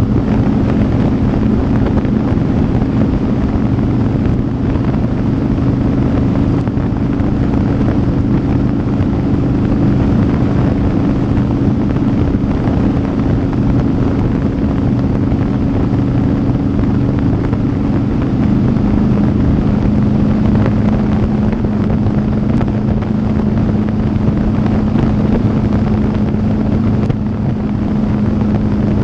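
Motorcycle engine running steadily at road speed, with wind buffeting the microphone. A little past two-thirds of the way through, the engine note steps down slightly.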